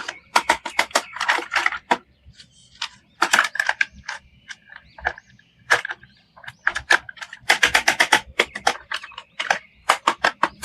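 Sharp plastic clicks and rattles in quick runs, with short pauses, as toy figures and their packaging are handled.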